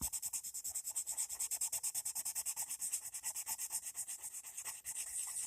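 Coloured pencil shading on paper: quick back-and-forth strokes, about ten a second, making an even scratchy rasp.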